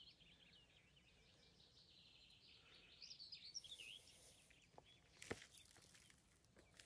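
Near silence with faint birdsong, chirping phrases that come and go, and one brief click about five seconds in.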